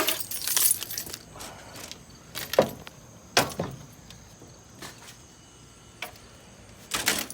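Keys jingling and clinking, with a few sharp knocks and clicks spread through, the loudest around the middle and again near the end.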